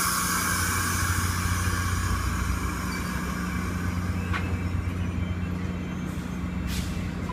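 Caltrain commuter train standing at the platform with a steady low hum, and a loud hiss of compressed air that fades over the first few seconds. A sharp click comes about four seconds in and a short burst of air hiss near the end.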